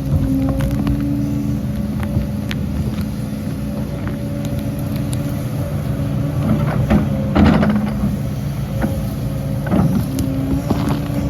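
Heavy diesel earthmoving machinery running at a steady pitch, with bursts of clanking and rattling about six to seven seconds in and again near ten seconds.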